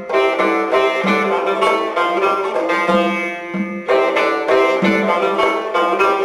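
Instrumental break in traditional Uzbek music: string instruments playing a busy melody over a low note that returns about once a second, with no singing.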